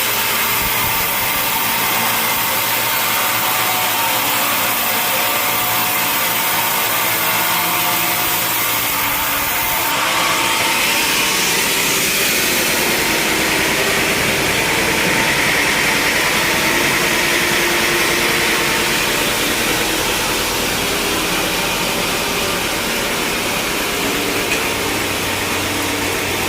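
Sawmill saw cutting through a log, a loud steady machine noise; its pitch and character shift about ten seconds in.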